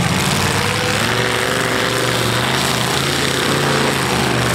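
Demolition derby cars' V8 engines running hard through open exhaust pipes, a loud steady low drone.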